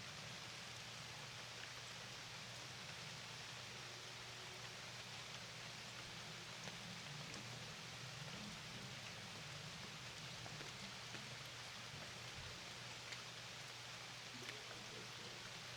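Steady rain falling, a soft even hiss with a few faint individual drop ticks, over a low steady hum.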